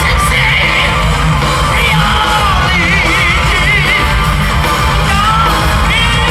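Rock band playing live and loud, with a heavy low end under a high lead line that bends and wavers in quick vibrato through the middle.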